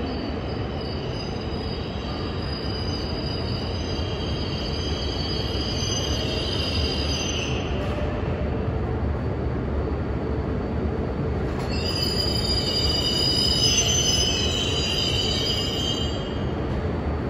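E5 series Shinkansen train pulling into the platform and slowing to a stop, a steady rumble with high squealing tones from the running gear. The squeal comes in two stretches and dies away as the train halts near the end.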